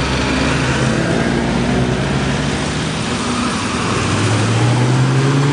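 Classic Rover cars driving past one after another, engines running; in the second half one car's engine note rises steadily as it accelerates away.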